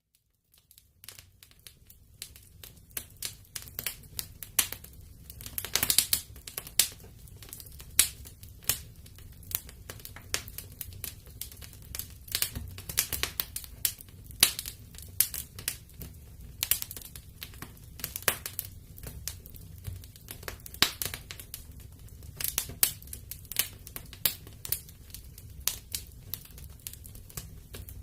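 Wood fire burning in a fireplace, crackling with many irregular sharp pops over a low steady rumble. It rises from a brief silence over the first couple of seconds.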